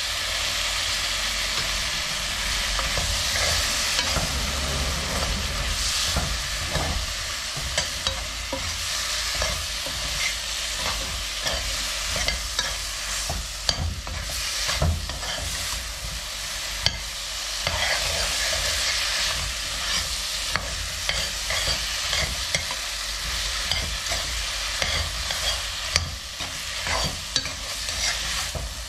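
Crayfish frying in curry in a pot over a gas flame: a steady sizzle, with a metal spoon stirring and clicking against the pot again and again.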